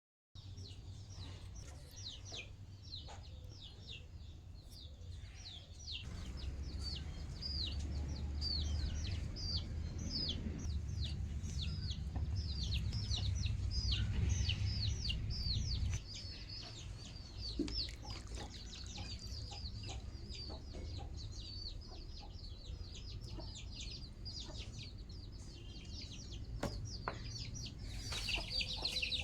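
Many young chicks peeping at once: a dense run of short, high, falling peeps, several a second, over a low rumble that grows louder for a stretch in the middle.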